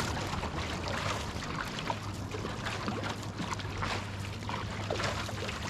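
Water trickling and splashing around an OC-1 outrigger canoe as it is paddled, with small irregular splashes from the paddle blade, over a faint steady low hum.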